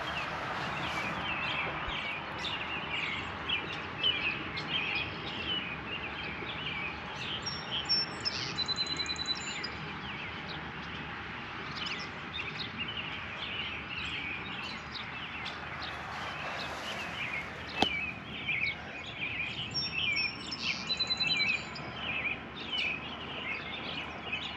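Songbirds chirping in many quick short calls, with a few higher trills, over steady outdoor background noise. A single sharp click comes about eighteen seconds in.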